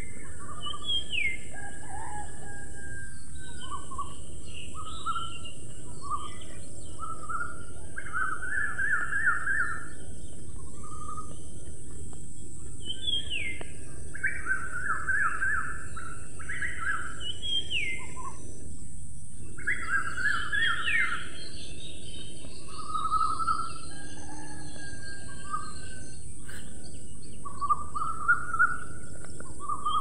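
Birds chirping: short calls, quick runs of repeated notes and several falling whistles, over a steady high hiss.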